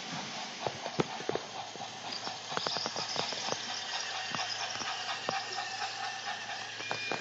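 A train clanking along the track: irregular sharp clicks and knocks over a steady hiss.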